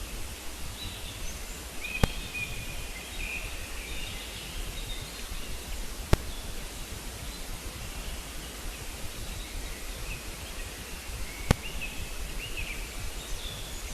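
Steady outdoor noise with faint, scattered bird chirps, broken by three sharp clicks about 2, 6 and 11 seconds in.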